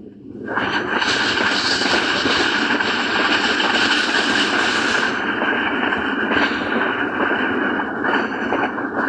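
A train passing close by at speed: a loud, steady rush of wheel and rail noise that builds up about half a second in and keeps on.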